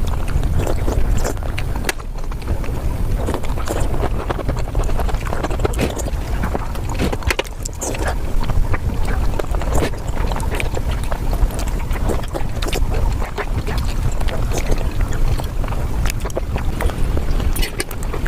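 Close-miked mukbang eating sounds: a person chewing and smacking mouthfuls of blueberry cake, a dense run of small clicks over a steady low rumble.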